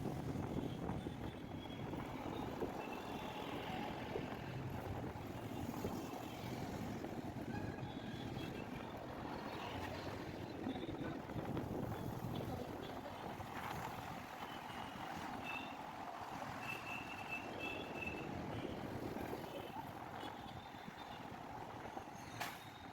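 Steady road traffic noise: a continuous rumble of passing vehicles, with a few faint short beeps in the second half.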